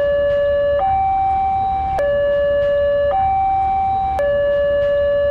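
Electronic two-tone emergency siren alternating between a low and a high pitch, each held about a second, with a low rumble underneath.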